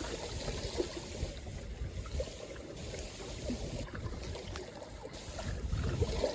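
Small waves lapping and splashing at the lakeshore in strong wind, with wind rumbling on the microphone.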